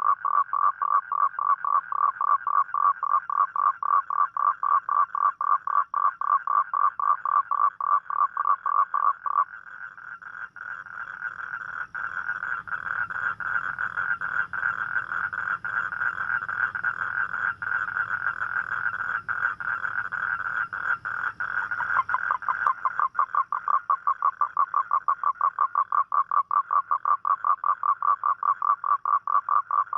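Toad calling for a mate: a fast, steady train of pulsed croaks, about four a second. From about ten seconds in, the pulses give way to a denser, slightly higher trill, and the pulsed calling comes back about twenty-two seconds in.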